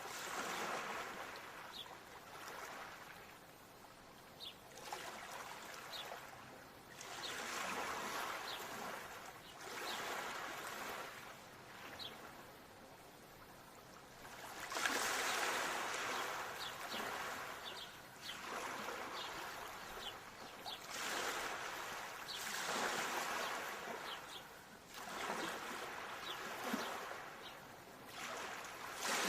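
Ocean waves washing in and drawing back, a swell every few seconds, the biggest about halfway through, with faint short high ticks of water in between.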